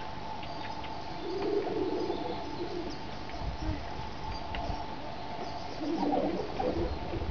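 Wild birds calling: scattered short high chirps, and two longer stretches of low-pitched calls, one a little over a second in and one near the end. A low rumble of wind runs underneath.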